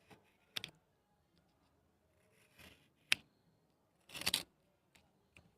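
Cutting and scraping at the paper casing of a firecracker rocket: a few short snips and scratches with a sharp click about three seconds in and a longer, louder scrape a little after four seconds.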